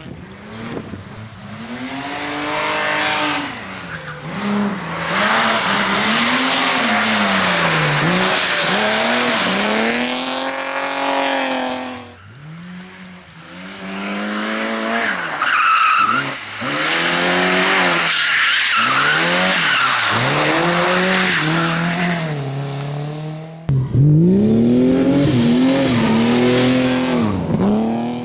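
Competition car engine revving hard and falling back again and again through gear changes, with tyres squealing briefly in the middle. It comes in three stretches, each ending with a sharp break.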